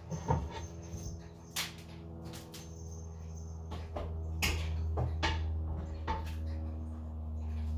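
Kitchen knocks and clicks, a knife cutting chicken breast on a cutting board, scattered irregularly. Under them a steady low hum comes in and grows slightly louder.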